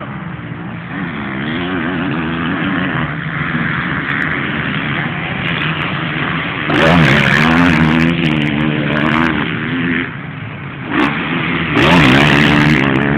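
Motocross bikes racing, engines revving up and down through the gears. Louder passes come about seven seconds in and again near the end, with a short lull between them.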